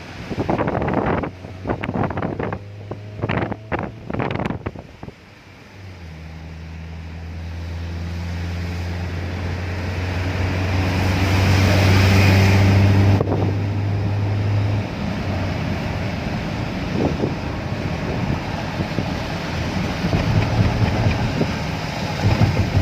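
A vehicle running, heard from inside: a steady low engine hum sets in about six seconds in, after a few seconds of knocks and rattles. A hiss of tyre and road noise swells over the hum and cuts off sharply about halfway, and the hum carries on.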